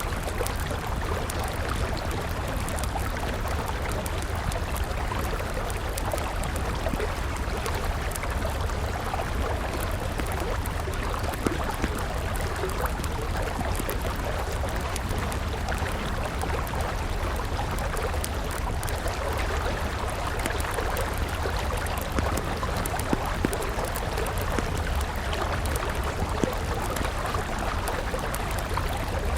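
River water flowing steadily, with a wood campfire crackling in scattered sharp pops. A few louder pops come about midway and again a little after two-thirds of the way through.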